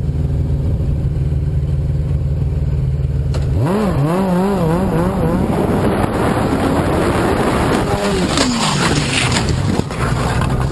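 Motorcycle engine idling steadily, then revving hard and pulling away about three and a half seconds in, with rushing wind noise building. Near the end the engine note falls away.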